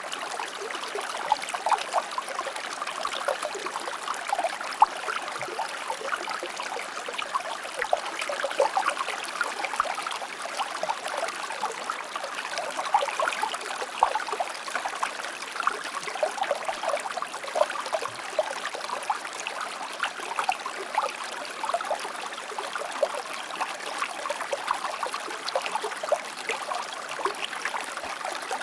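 River water flowing over rocks: a steady rush with constant small splashes and burbles.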